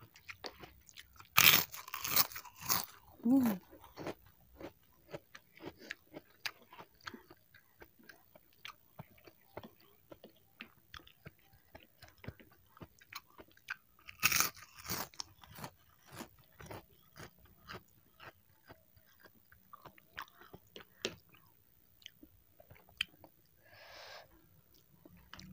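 A person chewing saucy fried instant noodles with vegetables and tofu close to the microphone: small wet mouth clicks about twice a second, with louder bursts around two seconds in and again about halfway through.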